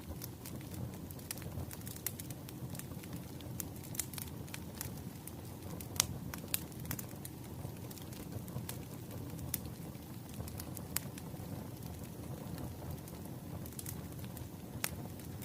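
Firewood burning: a steady low rumble of flame with irregular sharp crackles and pops, the loudest about six seconds in.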